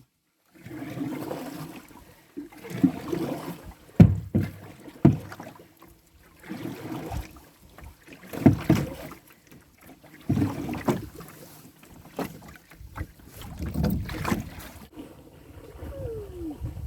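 A canoe being paddled: a paddle stroking through the water in repeated swells about every one and a half to two seconds, with several sharp knocks. A short falling squeak near the end.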